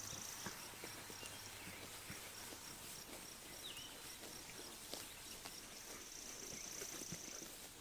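Sheep grazing, with a run of small crunches from grass being torn and chewed. A high, thin trill sounds near the start and again near the end, and a bird gives one short chirp about halfway through.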